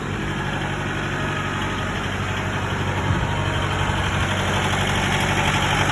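Kubota 70-horsepower four-wheel-drive tractor's diesel engine running steadily, getting slightly louder toward the end.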